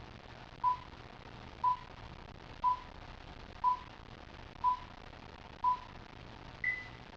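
Electronic beep tones: six short equal beeps one second apart, then a seventh beep pitched higher, like a countdown or time signal. A low hum and hiss run underneath.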